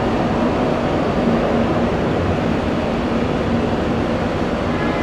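Jet airliner engines running, a steady noise with a low constant hum and no change in level.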